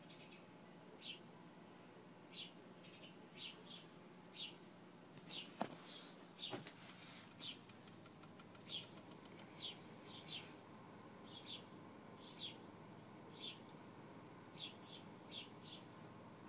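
Short high chirps repeating about once a second, like a small bird calling, over a faint steady hum. A couple of knocks and a patter of faint clicks come around the middle, the first knock the loudest sound.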